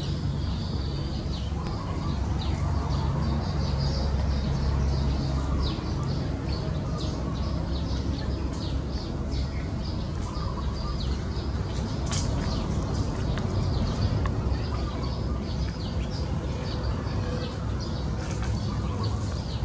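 Small birds chirping, many short quick chirps over a steady low rumble.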